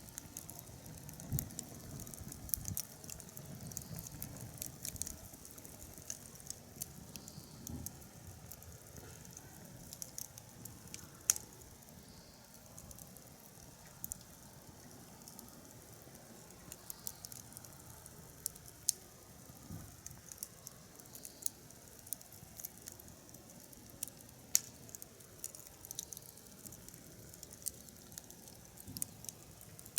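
Firewood fire crackling, with irregular sharp pops scattered throughout and a few louder ones.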